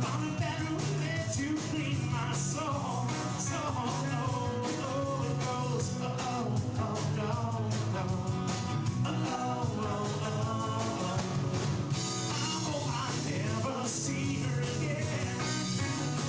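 Rock song: a singing voice over a full band with steady drum hits.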